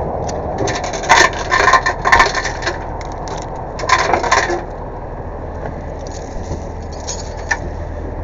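Safety chains clinking and rattling as they are handled and hooked on, in a burst about a second in and another about four seconds in, over the steady low running of the tow truck's engine.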